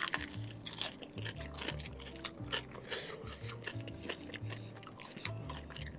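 Close-up chewing of a fried chicken wing: many quick, wet mouth clicks and smacks. Background music with held low notes plays under it.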